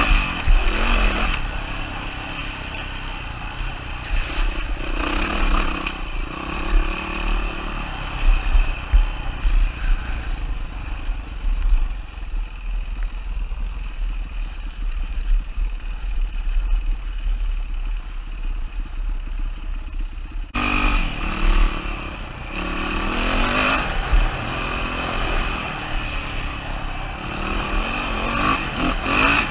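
2007 Yamaha WR450F dirt bike's single-cylinder four-stroke engine revving up and down in repeated throttle surges, with clatter. The engine runs quieter and steadier through the middle, then picks up again abruptly about two-thirds of the way through.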